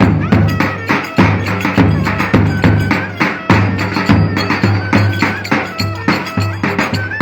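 Live Turkish wedding dance music: a loud, steady drum beat with sharp clacking percussion, and a high, wavering melody line over it.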